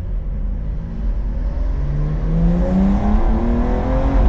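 Porsche 992.2 Carrera's twin-turbo flat-six under hard acceleration from low revs, its note climbing steadily in pitch as the car pulls.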